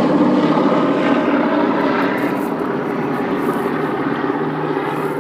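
Boeing B-17's four radial piston engines droning as the bomber climbs away after takeoff, the sound slowly fading.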